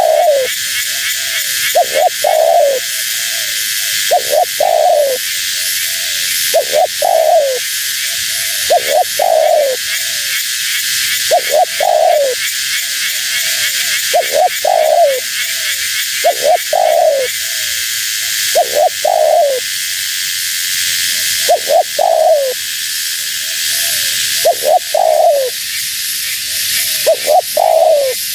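Spotted dove (tekukur) cooing over and over, one phrase about every two and a half seconds: each phrase is a couple of short notes followed by a longer falling coo. A steady high hiss runs behind the calls.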